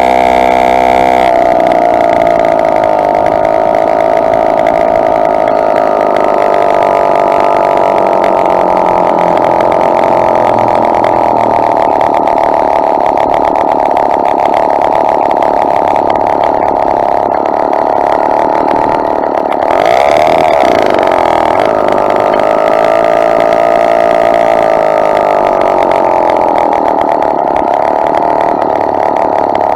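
Two-stroke motorized bicycle engine running under way, its pitch rising and falling with the throttle, with a brief surge about two-thirds of the way through.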